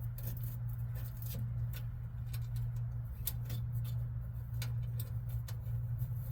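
Scattered small clicks and taps of hardware and tools being handled, irregular and a few per second, over a steady low hum.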